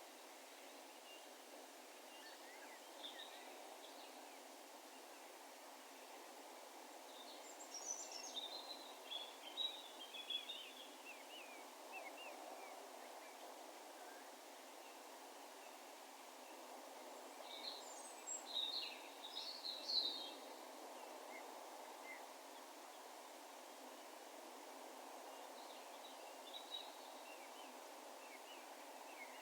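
Distant songbird calls echoing over an open field: short, high chirping phrases, with two louder spells of calling, one about a quarter of the way in and one just past the middle, over a faint steady background hush.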